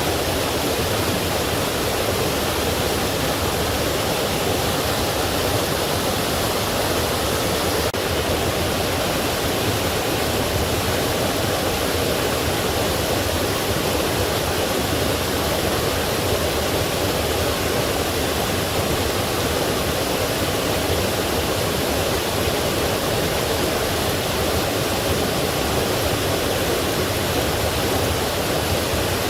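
Forest stream rushing over rocks and small falls, a steady, even rush of water.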